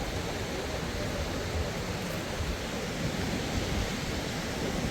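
Steady rushing of falling water from a waterfall, an even, unbroken noise.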